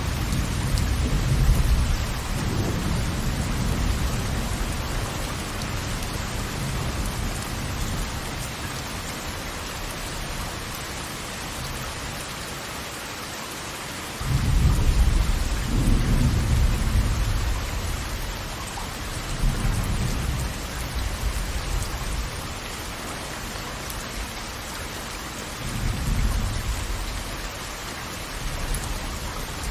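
Steady rush of falling water with deep low rumbles that swell and fade several times, the loudest starting suddenly about halfway through.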